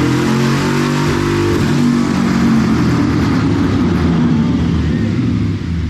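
Twin-turbocharged Ford 4.6-litre two-valve V8 running loud, its pitch shifting early on and then holding steady and rough.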